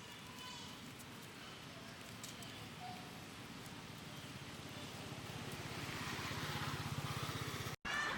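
A small engine running with a steady pulse, growing louder over several seconds and then cutting off abruptly near the end. A few faint high-pitched cries are heard in the first half.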